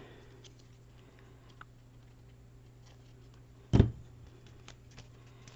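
A single dull knock on the craft table about four seconds in, like an object set down on it, amid faint paper-handling ticks over a steady low hum.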